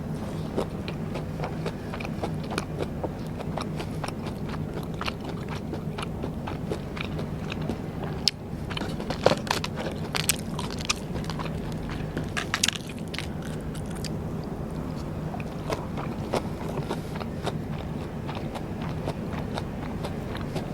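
Close-miked eating of Vietnamese rice paper snacks (bánh tráng): bites and chewing with many small sharp clicks, thickest and loudest about nine to thirteen seconds in.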